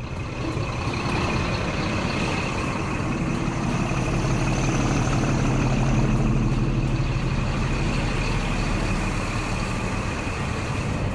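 Old Scania truck's diesel engine idling steadily, with an even hiss over the low hum.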